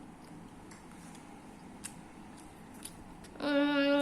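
A spoon clicking faintly against a food container a couple of times as food is taken and eaten, then near the end a long, loud hummed 'mmm' from the taster.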